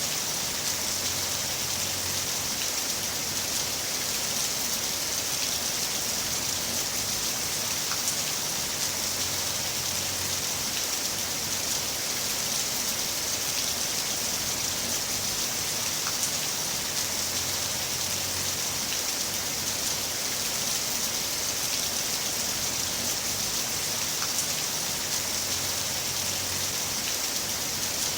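Heavy rain falling steadily, a dense even hiss with scattered small drop ticks.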